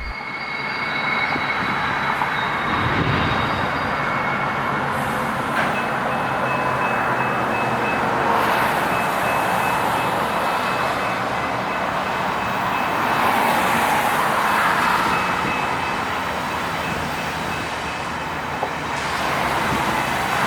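Mixed freight train with a ten-locomotive diesel consist passing: engines running and steel wheels on rail in a steady rumble that swells a few times, with a thin high whine running through it.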